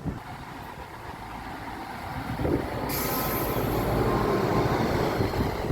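A large vehicle rumbles close by and grows louder about two and a half seconds in. About three seconds in, a sudden high hiss like released air comes in on top.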